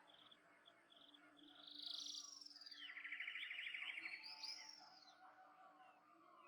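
Wild birds singing: a few short high chirps, then a rapid trill that runs for about a second and a half around the middle, and a couple of curved, swooping whistled notes near the end.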